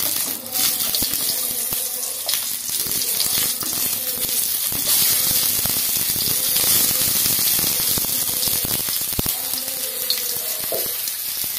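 Whole tomatoes sizzling in hot groundnut oil in a kadai, a steady hiss, with a few light knocks as a wooden spatula turns them.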